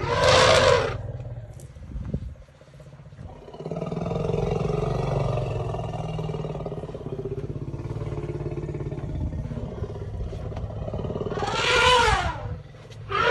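Elephant trumpeting: a loud blast near the start and another near the end that falls in pitch, with a long low rumble in between.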